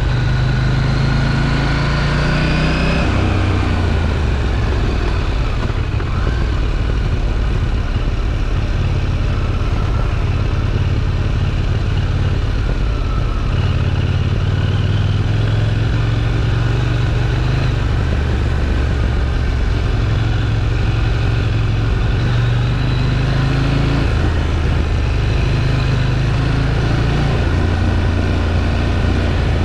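KTM 790 Duke's parallel-twin engine through its stock exhaust, on the move. The engine note climbs for about three seconds and then falls away. After that it keeps stepping up and down as the throttle and gears change.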